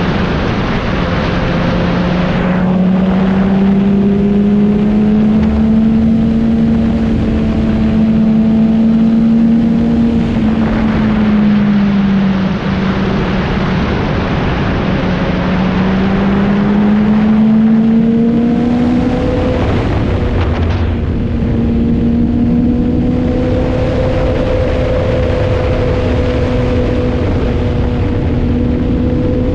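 Motorcycle engine running at road speed, its pitch slowly rising and falling with the throttle, over a rushing wind noise that comes and goes.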